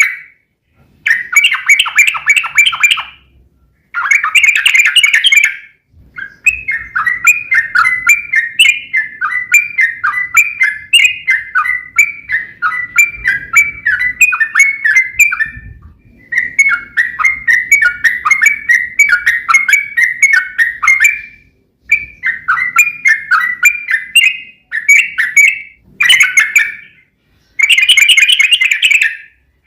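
Yellow-vented bulbul (trucuk) singing in full voice: rapid chattering trills, first in short bursts, then in long unbroken runs, then in short bursts again near the end.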